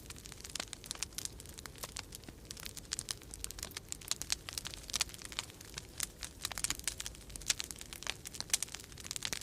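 Wood fire crackling in a fireplace, a steady stream of irregular sharp pops and snaps, over a low steady rumble of winter storm wind.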